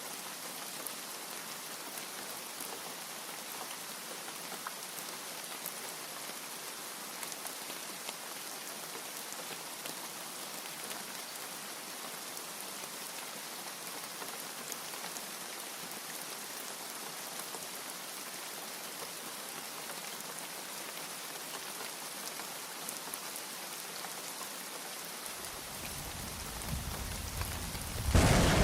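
Steady heavy rain, an even hiss with fine pattering drops. Near the end a low thunder rumble builds and breaks into a loud clap.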